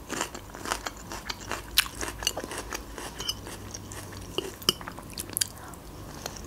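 Close-miked chewing of crunchy raw red bell pepper: irregular wet crunches and mouth clicks.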